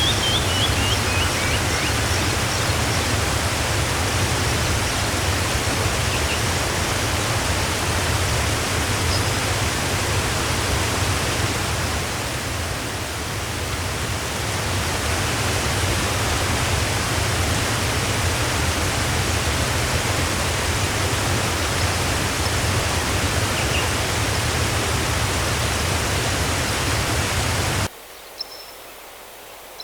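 Steady rushing of a waterfall, with a short falling run of bird chirps at the very start and a few faint chirps over the water later. About 28 s in the water sound cuts off abruptly, leaving a much quieter background with a few high bird calls.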